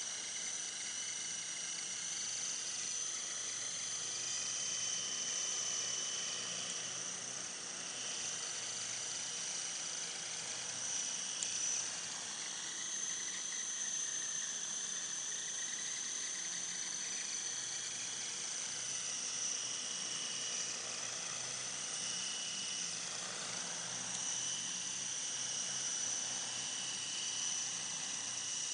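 Small model helicopter's motor and rotor running in flight: a steady high whine whose pitch wavers slightly now and then.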